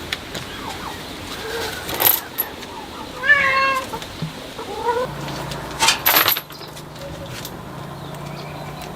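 A cat meowing: one call about three seconds in and a shorter rising one near five seconds. Sharp knocks sound around two seconds and again about six seconds in.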